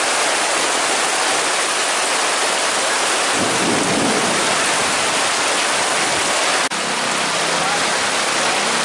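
Heavy rain pouring steadily in a thunderstorm, with a low rumble about three and a half seconds in.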